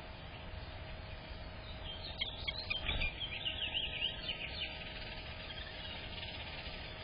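A small bird calling in a quick run of rising and falling chirps that lasts about two and a half seconds, starting about two seconds in, with a soft thump in the middle.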